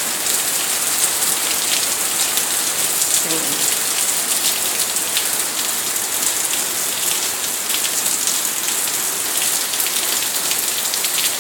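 Heavy rain pouring steadily: a dense, even hiss full of small drop impacts, with no letup.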